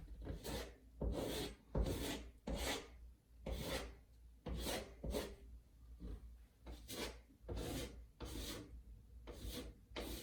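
Putty knife scraping across drywall in a series of short strokes, about one a second, smoothing spackle over a filled hole.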